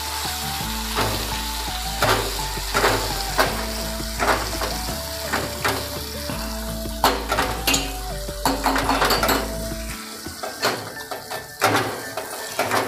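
Cherry tomatoes and spices sizzling in hot oil in a non-stick pan while a spatula stirs them, its strokes scraping across the pan again and again. The sizzling eases a little near the end.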